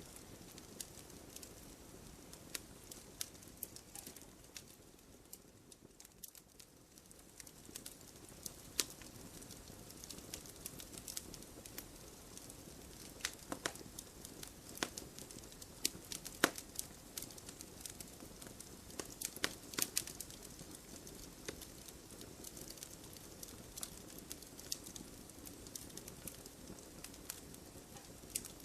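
Wood fire burning in a fireplace, crackling with irregular snaps and pops over a low, steady background rush.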